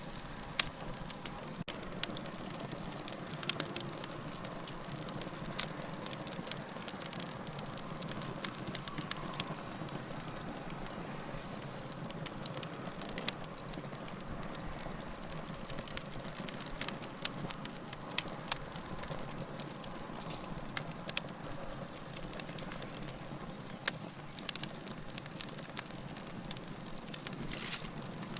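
Wood fire burning with a steady low rushing underneath and frequent irregular sharp crackles and pops.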